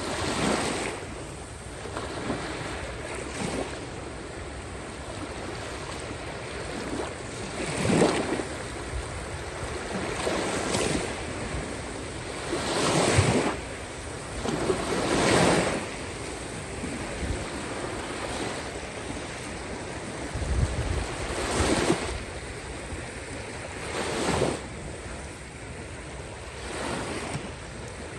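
Caspian Sea waves breaking and washing ashore, a swell rising and falling every few seconds over a steady surf hiss. Wind buffets the microphone, most noticeably as a low rumble about two thirds of the way in.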